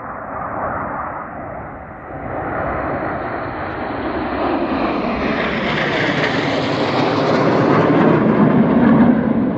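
Formation of BAE Hawk T1 jets flying by, a steady rushing jet noise that builds from about two seconds in and is loudest near the end.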